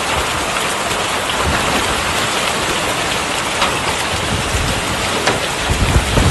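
Heavy hail and rain pelting down in a steady, dense hiss, with scattered sharp ticks of stones striking. A low rumble swells near the end.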